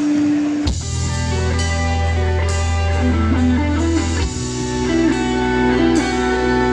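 Live pop-rock band music: guitar over held bass notes and drums, with the chord changing about a second in and again around four seconds in.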